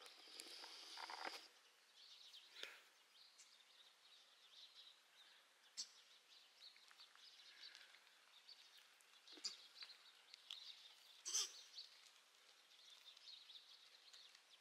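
Faint outdoor morning ambience with distant birds chirping and a few soft clicks.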